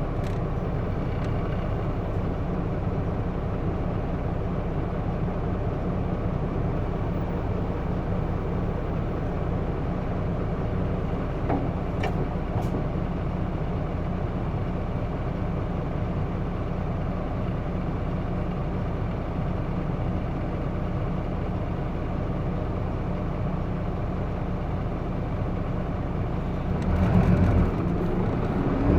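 Cabin running sound of a Hino Blue Ribbon II city bus with manual transmission: a steady low hum of engine and road noise, with a faint click partway through, growing louder near the end.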